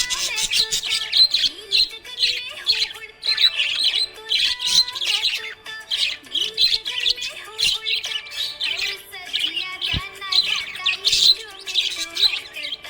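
Budgerigar chirping and warbling non-stop in quick, high chirps, the chatter of a contented budgie.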